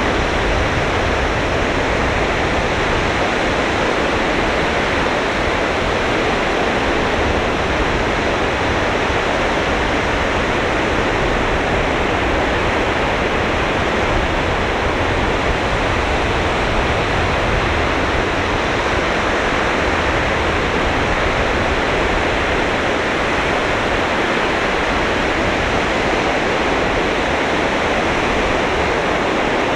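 Sea surf on a sand beach, a steady even roar with no single wave breaks standing out.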